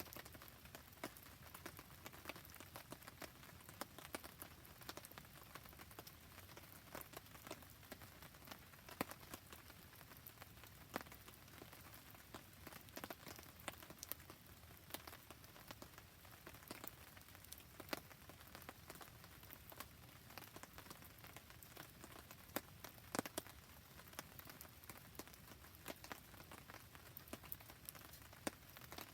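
Quiet, steady rain pattering, with many short sharp ticks and pops scattered through it from raindrops and a crackling wood campfire.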